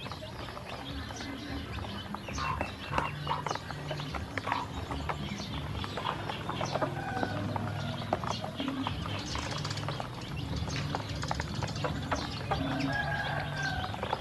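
Ducklings eating feed: a dense, irregular patter of quick clicks from their bills pecking and dabbling.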